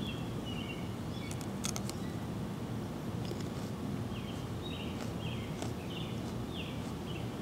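A bird chirping over and over in short, falling chirps, over a steady low outdoor rumble. A few sharp clicks come about a second and a half in.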